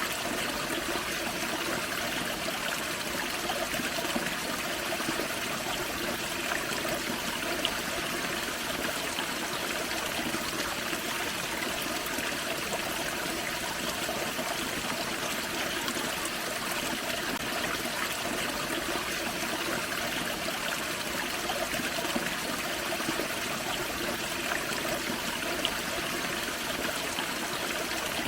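Small forest waterfall and creek water running and splashing over rocks, a steady even rush.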